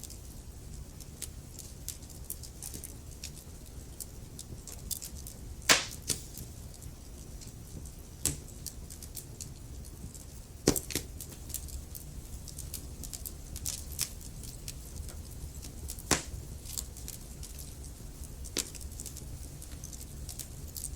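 Burning logs in a fireplace crackling: scattered small snaps with a few louder pops, about six seconds, eleven seconds and sixteen seconds in, over a low steady rumble.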